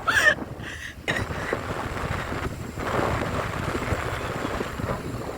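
Wind rushing over the microphone of a moving motorcycle, with a steady low rumble of the ride underneath.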